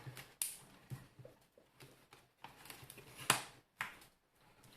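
A plastic card prying at a steam iron's plastic housing: scraping with several sharp plastic clicks, the loudest snap about three and a half seconds in, as the hidden catches are worked open.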